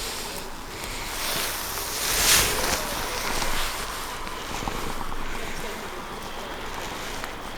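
Wind rushing over the microphone in uneven gusts, with the strongest gust a little over two seconds in.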